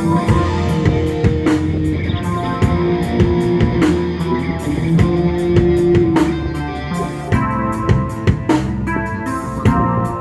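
A live band playing an instrumental passage: guitar and bass over a drum kit keeping a steady beat.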